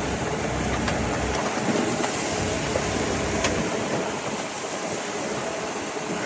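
Heavy earthmoving machinery running steadily, with a few sharp metallic clicks about one, one and a half and three and a half seconds in.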